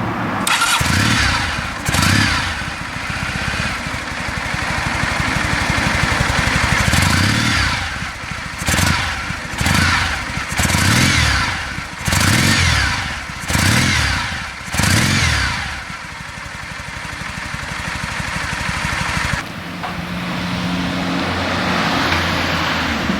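Kawasaki W650's air-cooled 360° vertical-twin engine through its stock mufflers, revved and held up, then blipped about six times in quick succession before dropping back to a steady idle.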